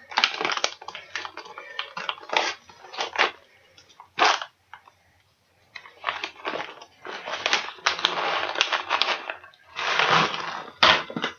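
Plastic snack pouch being torn open and handled, crinkling and crackling in irregular bursts, with a short lull around the middle.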